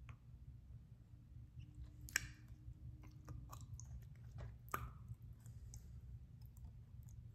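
Faint, irregular wet mouth clicks and smacks from a man chewing a hot pepper, the two loudest about two seconds in and just before five seconds.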